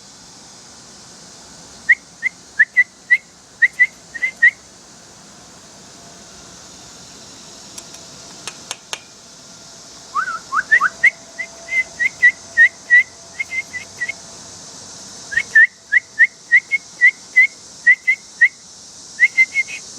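A person whistling runs of short, chirp-like notes, imitating a bird to coax a baby bird into opening its mouth for food. The notes come in quick bursts of four to eight, with a pause about five seconds in and a few rising whistled notes about ten seconds in.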